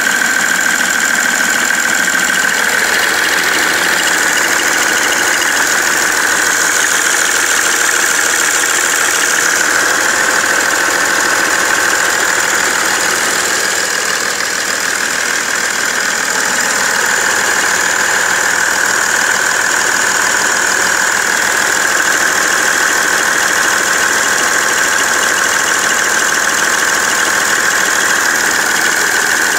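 BMW 330d E91's straight-six turbodiesel running steadily at idle with a knocking sound. The knock appeared after the main and EGR thermostats were replaced, and its cause is unknown to the owner.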